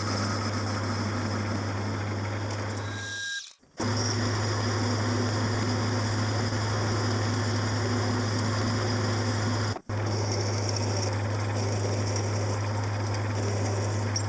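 A metalworking machine tool running steadily, its motor giving a strong constant low hum under a noisy cutting sound. It cuts out abruptly twice, at about three and a half seconds and near ten seconds, and starts straight back up.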